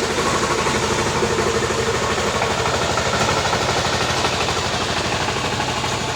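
Tractor engine running steadily with a fast, even chugging pulse.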